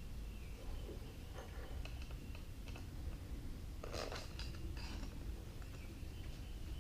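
Light scattered clicks and small metallic taps of hand tools and starter parts being handled during reassembly, with one louder short scrape or rattle about four seconds in.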